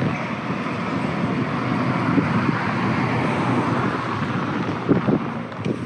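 Steady outdoor background noise, an even hiss and rumble like road traffic, with a couple of light knocks about five seconds in.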